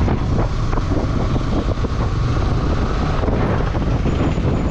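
Motorcycle riding on the road, with wind buffeting the microphone over the steady drone of the engine and tyres.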